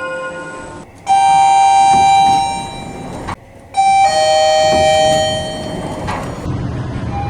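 Elevator arrival chimes from two different lifts: a single ringing chime about a second in that fades, then after a brief cut a two-note falling ding-dong chime that rings out.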